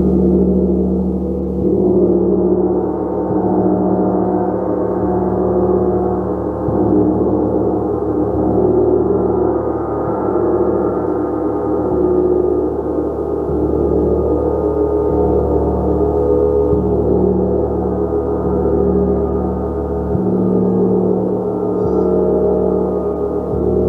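A gong played continuously, building a sustained, dense wash of many overlapping ringing tones that swells and eases slightly every couple of seconds, with no break in the sound.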